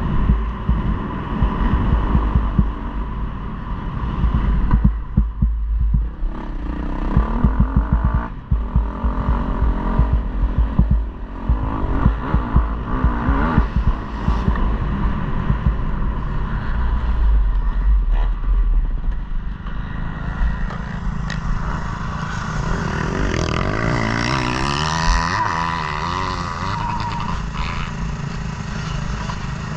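KTM 250 motocross bike's engine running hard and revving up and down through the throttle. Heavy, choppy low rumble fills the first two-thirds; in the last third the engine note stands out more clearly, rising and falling in pitch.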